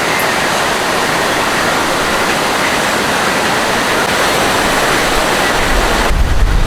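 Loud, steady rush of fast-flowing water. It cuts off abruptly near the end and gives way to a low rumble of wind on the microphone.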